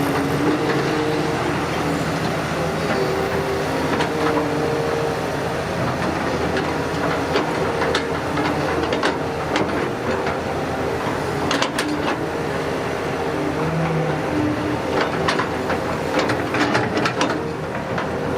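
Excavator's diesel engine running steadily under load, with intermittent sharp metallic clanks and clatter from the machine, bunched about two-thirds of the way through and near the end.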